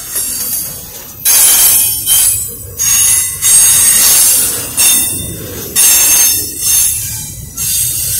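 Double-stack container freight train rolling past, its wheels squealing against the rails in a run of loud, high-pitched screeches that cut in one after another about every second, starting about a second in, over a low rumble of the cars.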